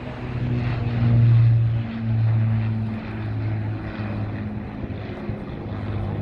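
Avro Lancaster's four Rolls-Royce Merlin piston engines droning in a low flypast, a deep throb that swells and eases in waves.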